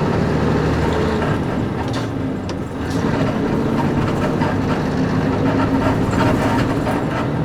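Cabin sound of a Nissan Diesel KC-UA460LSN one-step city bus under way: its PG6 diesel engine runs steadily along with road noise, and short creaks and rattles come from the leaf-spring suspension and body. The engine note dips briefly about three seconds in, then picks up again.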